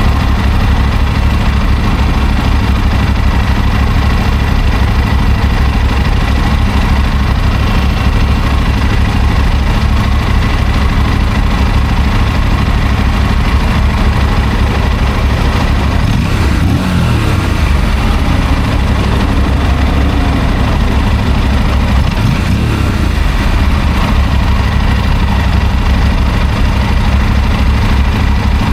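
Motorcycle engine running steadily at low revs. About two-thirds of the way through, a second engine note slides down in pitch, and a little later another rises and falls briefly.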